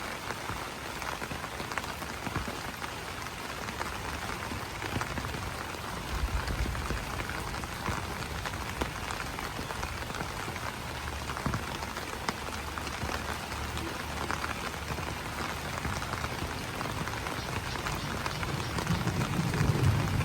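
Steady rain pattering on broad banana leaves, a dense hiss full of separate drop ticks. A low rumble swells in briefly about six seconds in and again, louder, near the end.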